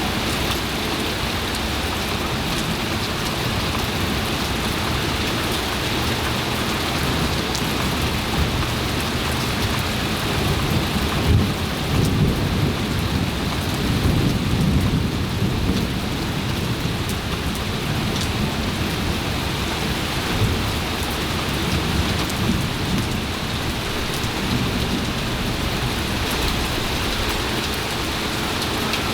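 Heavy rain falling steadily during a thunderstorm, with a low rumble of thunder that swells about halfway through and then dies away.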